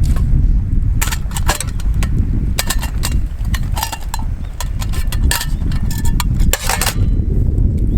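Wind rumbling on the microphone, with a run of sharp clicks and light clatters from about a second in until near the end.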